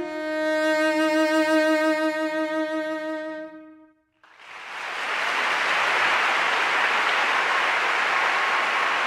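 A bowed string instrument holds a long note with vibrato that fades out about halfway through. After a brief silence, a steady rushing noise with no pitch sets in and carries on.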